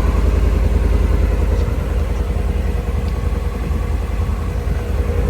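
Ford 5.0-litre Coyote V8 in a 2026 F-150 idling steadily after a cold start, through its stock exhaust with the factory muffler and resonator.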